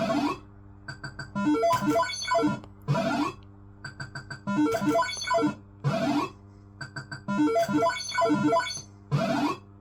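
Barcrest MPU3 Autoroute fruit machine playing its electronic sound effects: a repeating jingle of short beeping notes, with a rising sweep about every three seconds.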